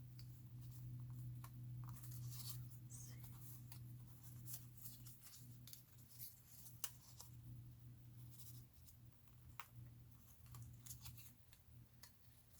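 Faint rustling and light tapping of paper pieces being handled and laid on journal pages, a series of short scattered rustles over a steady low hum.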